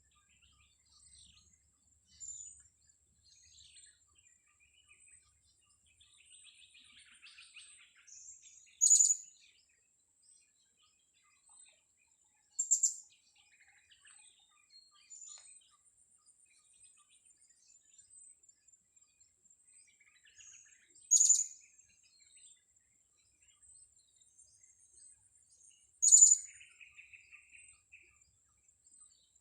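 Blue-crowned hanging parrot (serindit) giving four short, sharp, high-pitched calls several seconds apart, with faint softer twittering between them over a thin, steady, high-pitched hum.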